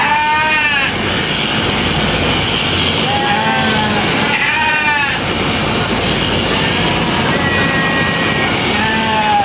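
Sheep bleating about five times in short calls over a steady background noise.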